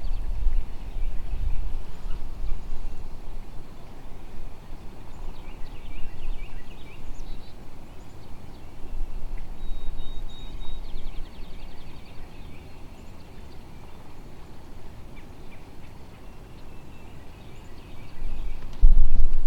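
Wild birds calling outdoors: scattered high chirps and a couple of short trills, over a steady low rumble of wind on the microphone. Near the end a loud low rumble comes in suddenly.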